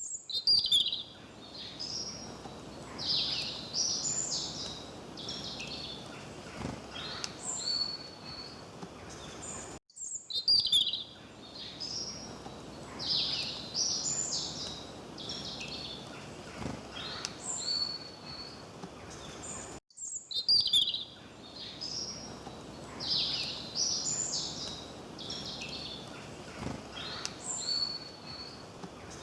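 Songbirds chirping and calling over a faint steady rush. The same stretch of birdsong repeats about every ten seconds, with a brief dropout between repeats.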